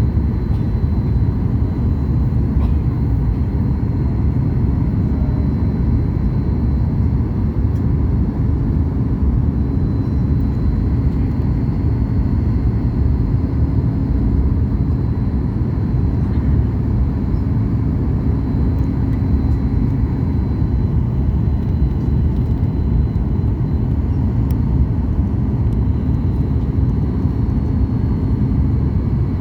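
Boeing 737 MAX 8 cabin noise on descent: the steady, loud rumble of airflow and its CFM LEAP-1B engines, with a faint high steady tone over it.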